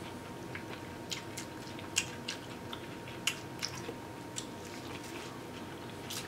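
Biting and chewing corn on the cob: short, sharp, irregular crunches and wet mouth clicks as the kernels are bitten off and chewed.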